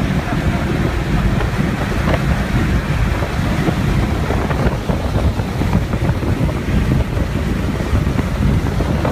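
Inside the cabin of a 1998 BMW E36 M3 at speed on a race track: the straight-six engine running hard at over 100 mph, mixed with heavy wind and road noise.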